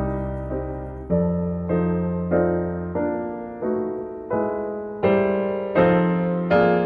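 Piano music: slow chords struck about one or two a second, each ringing and fading before the next.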